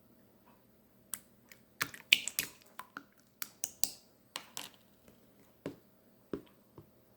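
Clear water slime being pressed and worked by hand, making sharp wet clicks and pops. They come in a quick run from about two to five seconds in, then twice more near the end.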